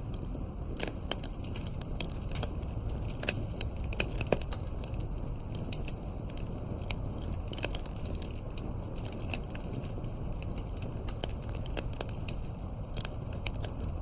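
A wood campfire burning, with sharp irregular crackles and pops over a low steady rumble of the flames. The loudest pops come about four seconds in.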